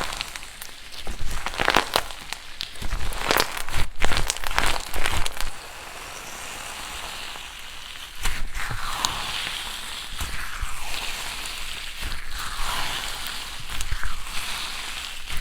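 Slime being pressed and worked by hand, crackling and popping with many sharp little clicks, then, about halfway through, softer squishing and rustling.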